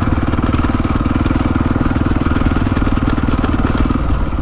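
450 dirt bike's single-cylinder four-stroke engine running at a steady, light throttle while being ridden, with an even rapid pulse.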